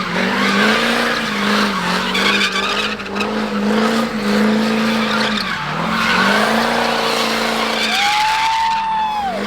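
Truck engine held at high revs while its tyres spin and squeal in a burnout. The engine pitch holds steady with brief dips, and a higher tone rises and falls for about a second near the end.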